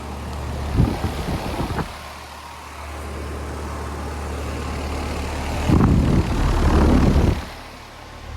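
Outdoor heat pump unit running in cooling mode: a steady low compressor hum under the even rush of the condenser fan. Twice, a louder, irregular low rumble lasting one to two seconds is laid over it.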